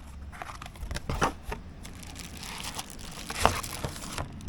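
Packaging crinkling and tearing as a new brake disc is unwrapped, with scattered clicks and a sharper knock about three and a half seconds in.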